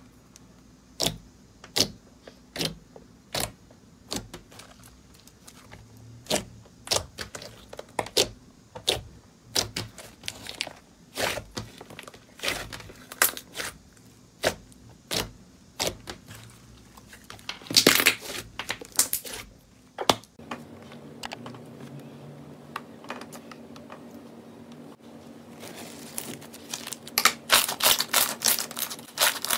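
Crunchy slime being pressed and squeezed by hand, giving sharp crackles and pops about one a second, with dense runs of crunching midway and again near the end.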